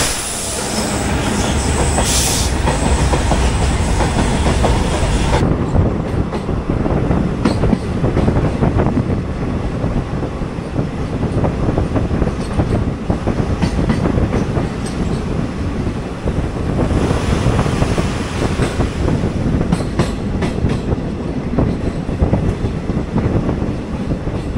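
A moving Uttar Banga Express passenger train: a steady rumble with the clickety-clack of its wheels over the rail joints. A higher hiss drops away about five seconds in.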